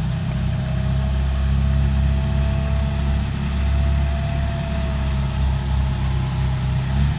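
Truck engine running steadily at a low, even speed, with a faint held whine above the rumble.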